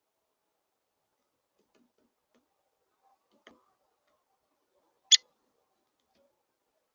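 Downy woodpecker pecking at a bird feeder: a few faint taps, a clearer one midway, then a single loud sharp tap about five seconds in.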